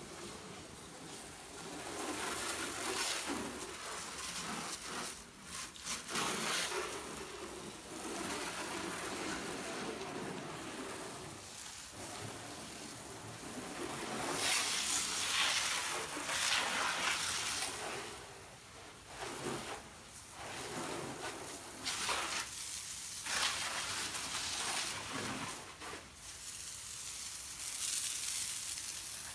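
Water spraying and splashing over a car's body in uneven surges, as spray-on chalk paint is washed off.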